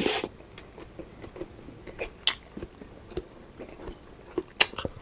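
Close-miked eating: chewing and biting with scattered short, wet mouth clicks and a sharper bite near the end.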